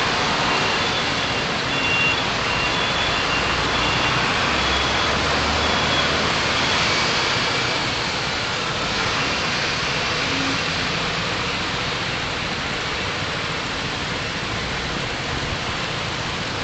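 Steady city traffic and road noise from a car on the move: a constant rush of tyres and engines. A short high-pitched electronic beep repeats over and over through about the first six seconds.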